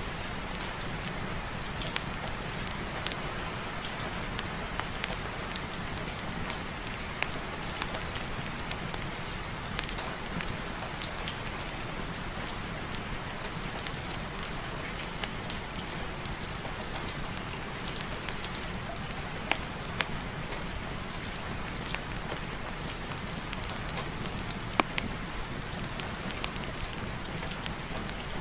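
Steady rain, an even hiss with irregular sharp ticks of drops, about one or two a second.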